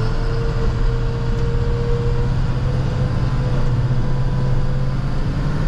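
Plow truck engine running steadily as it drives, a low hum with a thin steady whine above it.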